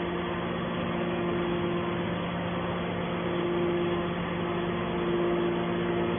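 Steady machinery hum, holding a low tone and a higher tone an octave above it over a noisy rumble, typical of a metal scrap baler's motor and hydraulic pump running.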